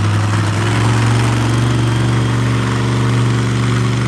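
Monster truck engine running loudly at a steady idle, its pitch holding constant.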